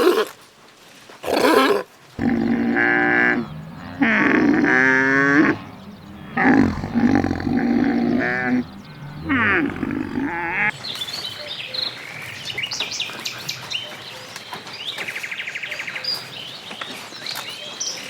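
A series of loud animal calls, each about a second long with a wavering pitch, followed from about ten seconds in by a mix of bird chirps and trills.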